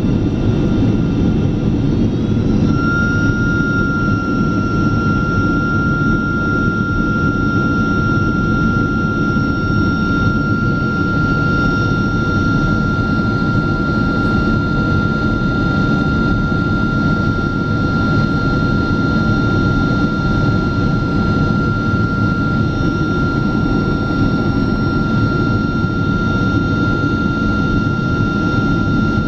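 Jet airliner cabin noise inside a Boeing 767-400ER: a steady low rumble of engines and airflow. About three seconds in, a steady high engine whine comes in and holds.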